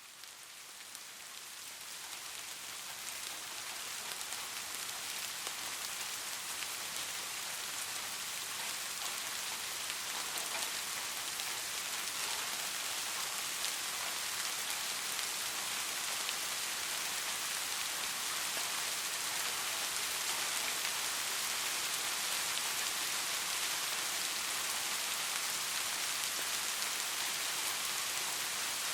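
Steady rain falling, a dense even hiss of drops. It fades in over the first few seconds, then holds level.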